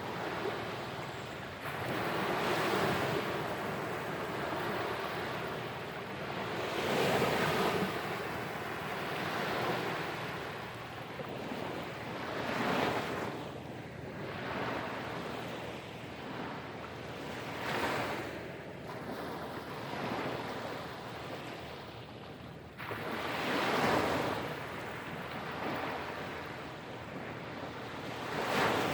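Surf breaking and washing up on a sandy beach, a wave swelling in every four to six seconds.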